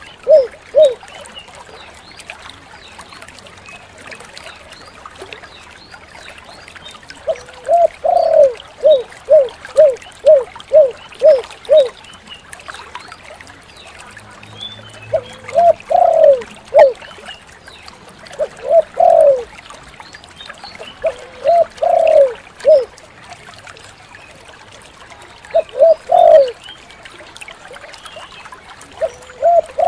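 Spotted dove (tekukur) cooing: phrases of quickly repeated low coos, several phrases with pauses of a few seconds between them. Faint high chirps of small birds sound behind it.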